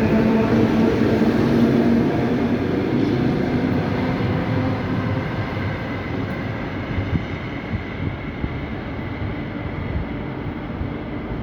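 ED4M electric multiple unit running along the track, its rolling noise and motor hum gradually fading as it moves away, with a few sharp knocks in the second half.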